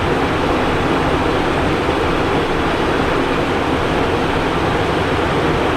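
Steady rush of airflow and engine noise inside the cockpit of a Cessna Citation Encore business jet in flight.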